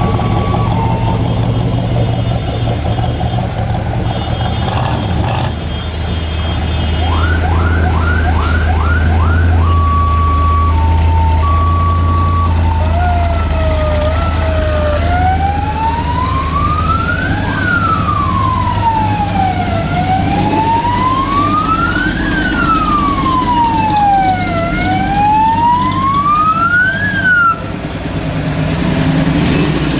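An emergency vehicle's electronic siren cycling through its tones: a two-tone hi-lo near the start and again around ten seconds in, a quick run of about five rising whoops around eight seconds, then a slow rising-and-falling wail from about fifteen seconds that cuts off near the end. A steady low engine idle runs under the first half.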